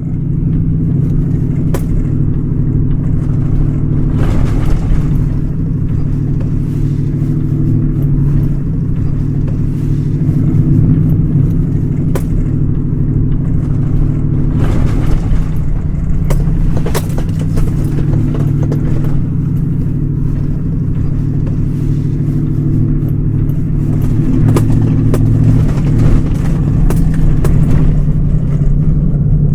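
Pickup truck driving, heard as a steady low engine and road drone with scattered light ticks and knocks over it.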